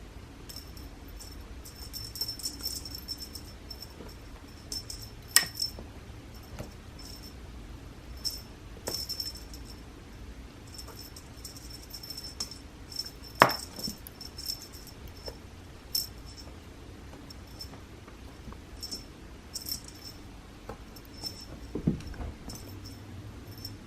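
A cat toy jingling and rattling in short, repeated bursts as a cat bats at it, with a few sharp knocks, the loudest about halfway through.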